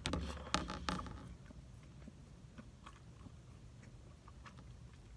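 Close-up eating sounds of cheese Danish coffee cake: a bite with a few sharp mouth clicks in the first second, then chewing with scattered soft clicks.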